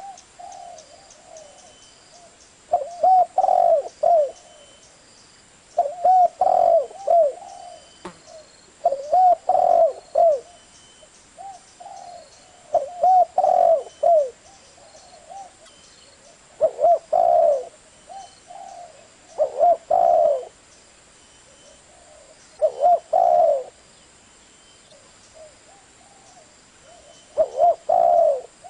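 Spotted dove cooing: a phrase of several low cooing notes, repeated about every three seconds.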